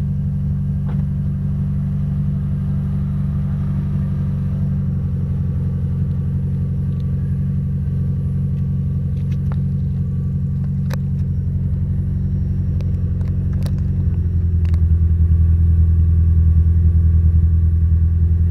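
Proton Satria's 1.3-litre four-cylinder engine running steadily at idle through a straight-piped exhaust, a deep even rumble. About 14 seconds in the note drops lower and gets louder.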